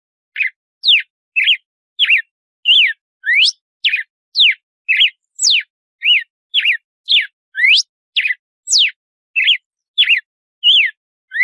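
Red-cowled cardinal (galo-de-campina) singing its 'açoite' song: a fast, unbroken series of clear whistled notes, about two a second, each sliding quickly up or down in pitch.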